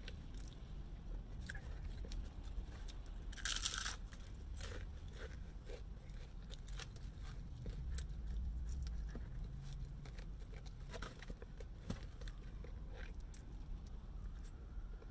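Close-up crunching, biting and chewing of KFC fried chicken, with scattered crisp crackles and a louder crackling burst about three and a half seconds in. Near the end a faint siren begins to rise.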